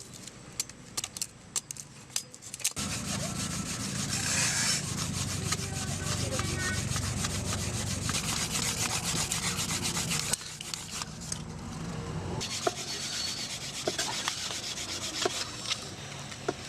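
Wood being rubbed rapidly back and forth, like sawing, for several seconds. The strokes begin about three seconds in, pause briefly past the middle, then go on more lightly.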